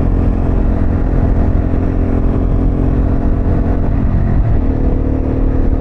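Harley-Davidson Pan America's V-twin engine through a Vance Hines exhaust, running steadily on the road. Its note drops slightly about four seconds in.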